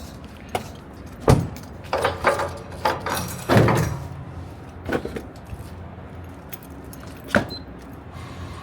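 A string of sharp metallic knocks, clanks and rattles, the loudest about a second in and again around three and a half seconds in. Under them runs the low steady hum of an idling semi-truck diesel engine.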